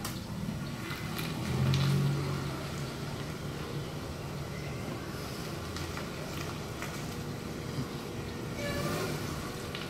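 Nissan Juke's engine running at low revs as the car is eased back and forth, with a brief swell about two seconds in.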